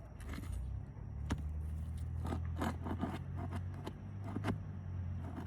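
Hand tool working under composition roof shingles to pull out roofing nails: scattered metallic clicks and scrapes, with one sharp click about a second in. A steady low hum runs underneath.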